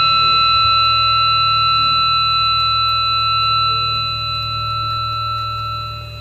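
A steady, unchanging high electronic tone over a low hum from the venue's sound system between songs, easing off slightly near the end.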